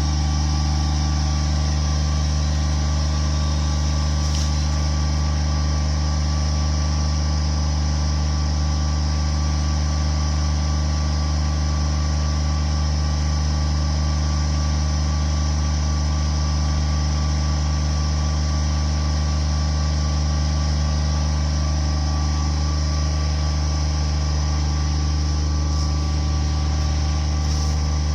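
Engine running steadily at one constant speed, a low drone that holds the same pitch throughout with no revving.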